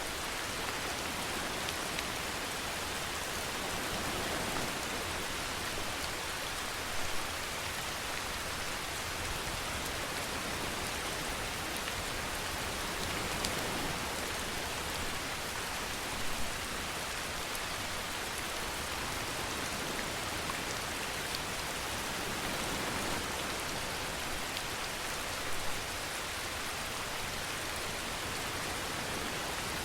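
Steady rainfall, an even hiss of rain on surfaces with a few slightly louder moments spread through it.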